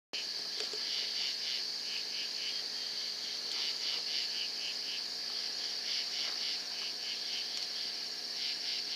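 Chorus of night insects, crickets, chirping steadily in rapid pulses.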